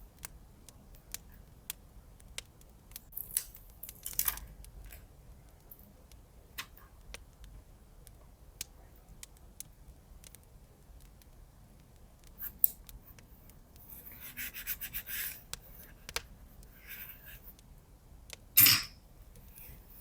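Paper-craft handling sounds in a journal: paper and tape being rubbed and handled, with scattered light clicks and taps. A run of quick, rhythmic scratchy strokes comes a little past the middle, and one loud sharp stroke near the end.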